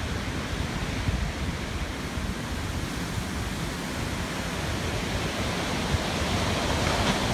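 Hurricane wind gusting, a steady rushing noise that builds slightly toward the end.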